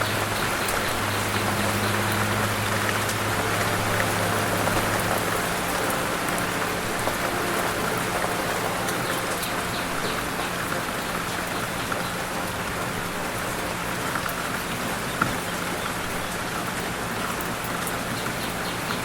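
A steady, even hiss with light rain-like patter and a faint low hum underneath.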